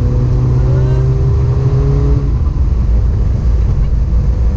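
Cabin noise of a big-turbo Audi TTS on the move: its turbocharged four-cylinder engine hums at a steady pitch for about two seconds, then the hum gives way to a low, even rumble of the car under way.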